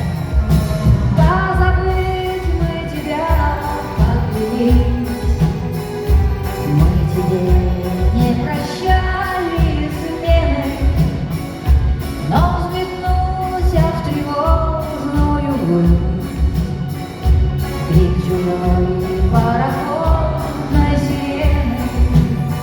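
A female singer singing a pop song live over a band backing with a steady, regular beat.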